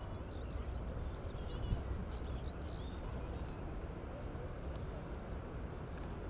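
Steady low background rumble with small birds chirping over it, most busily in the first three seconds, and one short knock just under two seconds in.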